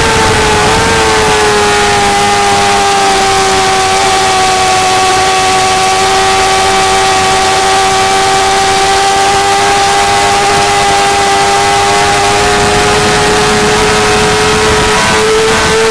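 2008 Yamaha YZF-R6's inline-four engine running at high, steady revs with wind rush over the bike. Its pitch dips slightly in the first second as the bike slows from about 130 mph, holds level through a long fast corner, and rises a little near the end as the bike speeds up.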